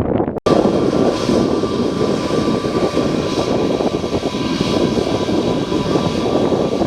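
Aircraft engines running loud and steady, with a whine of several steady tones over a dense rumble. The sound starts abruptly after a brief gap about half a second in.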